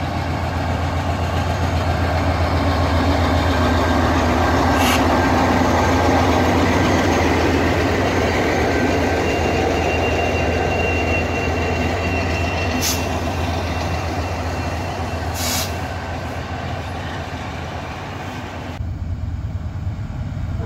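Norfolk Southern diesel locomotives passing close with a steady deep engine hum, followed by intermodal cars rolling by with a few sharp high squeaks and clicks from the wheels. Near the end it drops suddenly to a quieter, more distant train sound.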